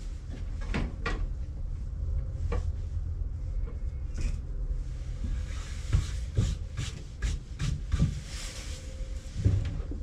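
Scattered wooden knocks and clicks from a wooden birdhouse being handled and worked on a bench, with a brief rubbing hiss about eight seconds in, over a steady low hum.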